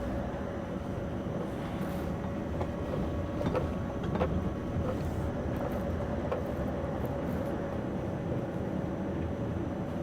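Scania V8 heavy haulage truck driving, heard from inside the cab: a steady low engine and road drone with a faint steady hum, and a couple of light knocks near the middle.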